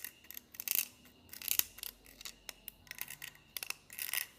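Scalpel blade scraping and shaving the edge of a finger hole in a dry bamboo (nứa) flute tube: short, irregular scraping strokes with light clicks.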